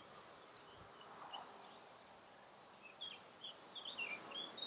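Songbirds singing faintly: scattered short, high chirps that turn into a quick run of varied chirps and whistles about three seconds in.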